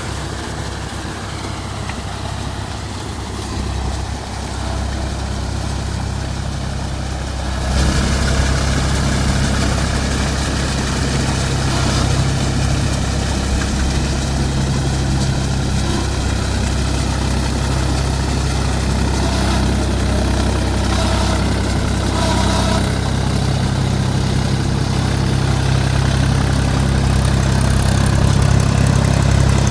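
Mahindra 275 DI TU tractor's 39 hp diesel engine running steadily, getting louder about eight seconds in and rising a little more towards the end.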